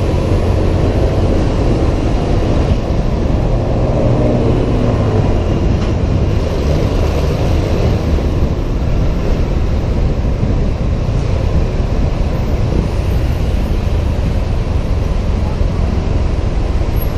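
Honda PCX 125 scooter's single-cylinder engine running steadily under way, under a loud, dense wind rumble on the helmet-mounted camera.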